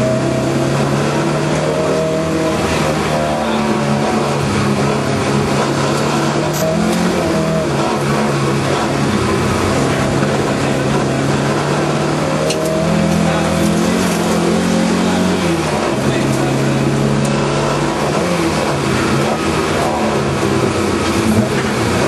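Lada 2101 rally car's inline-four engine heard from inside the cabin, running hard with its note climbing and falling repeatedly as the car is driven flat out along the stage, over a steady hiss of tyre and road noise.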